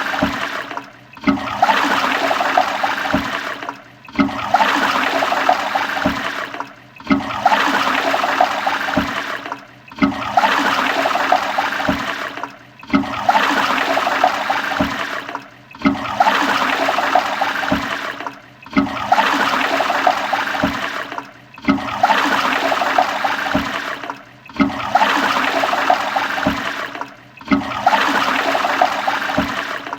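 Toilet flushing: a rush of water that dips briefly about every three seconds and starts again, like a short flush sound played over and over.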